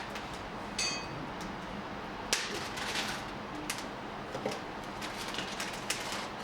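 Light clicks and clinks from a mini wood-stove cooking setup: one short ringing clink about a second in, then a scatter of sharp clicks, over a steady hiss.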